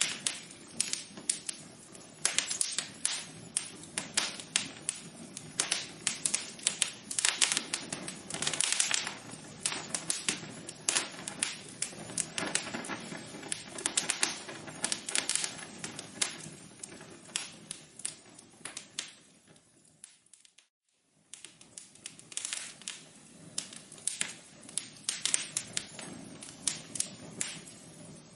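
Wood fire crackling in a fireplace: many irregular sharp pops and snaps over a soft hiss. The crackling briefly dies away to near silence about two-thirds of the way through, then picks up again.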